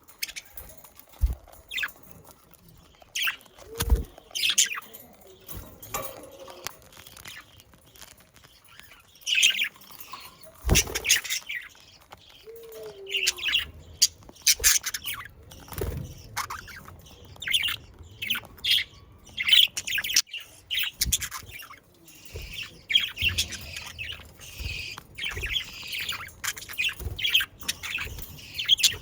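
Budgerigars chirping, warbling and squawking, with scattered knocks and wing flutters; the chatter grows denser and more continuous near the end.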